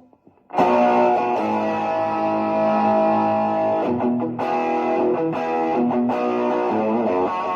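Electric guitar played through a multi-effects pedal's rock amp distortion channel, gain set below half: sustained distorted chords that start about half a second in and change a few times.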